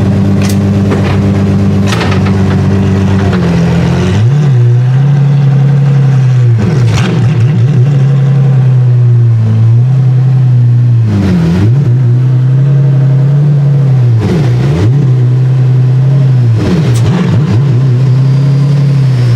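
Apollo Intensa Emozione's 6.3-litre naturally aspirated V12 running steadily. From about four seconds in, its note briefly dips and swings back up about five times, with a few sharp cracks.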